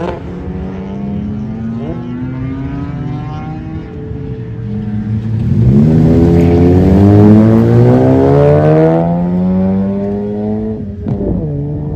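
Cars at full throttle on a race circuit, their engine notes climbing in pitch through the revs. The loudest car passes between about six and nine seconds in, then the sound fades.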